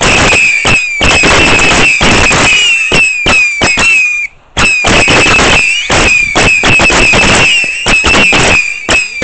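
Two Vulcan Saturn Missile 300-shot batteries firing at once: a dense, rapid stream of whistling missiles and sharp cracks, with one brief break about four seconds in.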